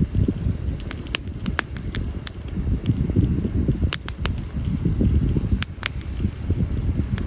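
Wood campfire crackling: scattered sharp pops and snaps from the burning logs over a constant low, fluttering rumble.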